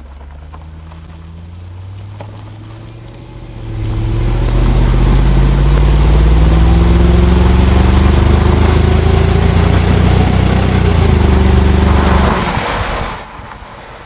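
Exhaust of a 2001 Jaguar XK8's AJ27 V8, on an aftermarket exhaust, under acceleration. It burbles low at first; about four seconds in it opens up loud, the pitch climbing steadily for some seven seconds before the throttle eases off near the end.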